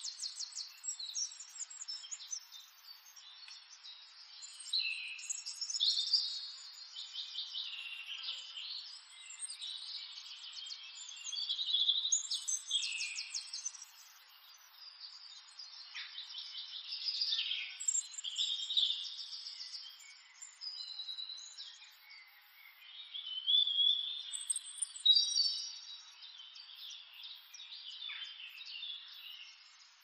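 Birds chirping and singing, several overlapping calls with quick trills and rising and falling whistles that come and go in clusters.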